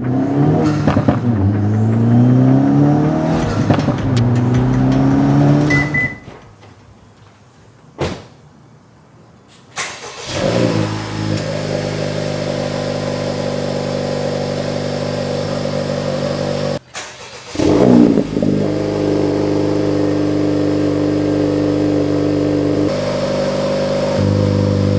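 Acura Integra Type S turbocharged four-cylinder running through a Milltek Road+ valved cat-back exhaust. It revs up twice in the first six seconds. After a quiet stretch, a burst about ten seconds in leads to a steady idle, and after a short break near seventeen seconds a second burst leads back into a steady idle.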